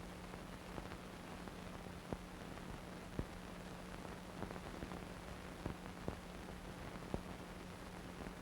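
Background noise with no sound of the scene: a steady hiss with a low hum and a few scattered faint clicks.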